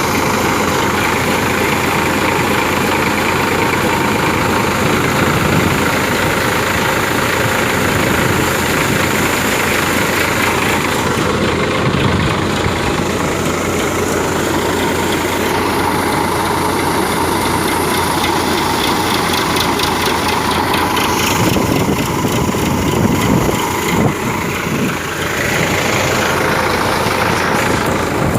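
Tractor-driven wheat thresher running steadily, the tractor's engine and the threshing machine together making a continuous mechanical noise.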